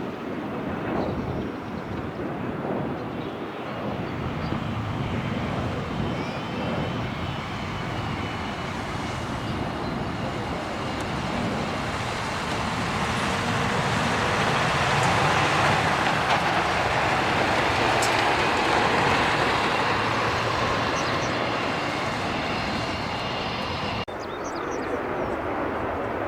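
Jet airliner engines: a loud, steady rush of jet noise with a thin high whine, swelling to a peak around the middle and easing off towards the end.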